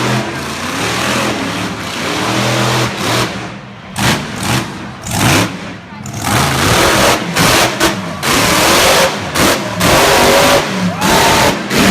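Monster truck engine revving hard again and again, its pitch climbing and falling with each burst.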